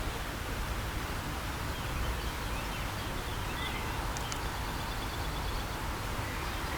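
Steady outdoor background noise with a low rumble, and a few faint bird calls about halfway through.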